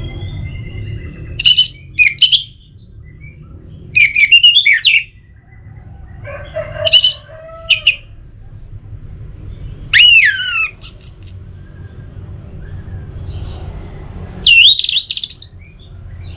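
Orange-headed thrush singing: about half a dozen short, loud phrases of quick rising and falling whistled notes, spaced a second or three apart, over a steady low hum.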